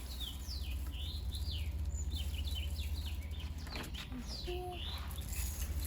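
Small birds chirping: a rapid series of short high chirps, over a steady low rumble.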